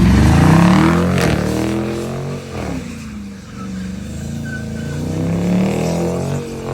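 Car engine revving, loud at first, the pitch rising and falling, easing off in the middle and building again near the end, with one sharp pop about a second in.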